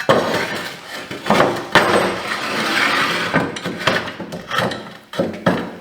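Metal clanking and knocking as a hydraulic cylinder is worked down inside a steel landing-gear leg, with several sharp knocks and a longer scraping slide about two to three seconds in.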